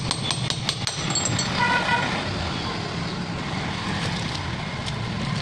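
Steady road-traffic rumble with a short vehicle horn toot about two seconds in, and a few sharp clicks in the first second.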